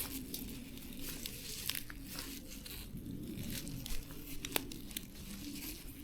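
Irregular crackling, tearing and snapping of leaves and stems being handled, as when weeds or wild greens are pulled and picked by hand. A faint steady low hum runs underneath.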